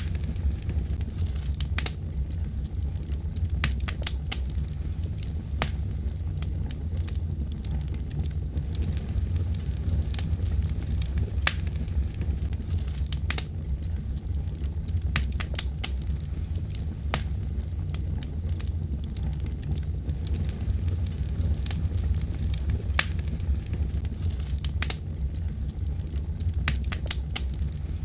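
Wood fire burning, a steady low rumble of flames with sharp, irregular pops and crackles scattered throughout.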